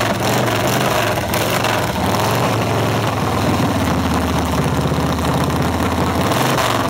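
Motorcycle engine idling over steady engine noise, with a low, pulsing idle beat standing out from about halfway through.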